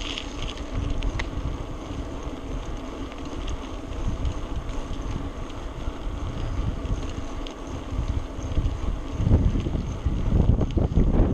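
Wind buffeting the microphone of a camera carried on a moving bicycle: a steady low rumble that swells into louder gusts near the end.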